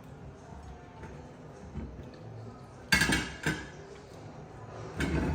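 Dishes and cutlery clinking at a meal: two sharp knocks about three seconds in, then louder handling noise near the end.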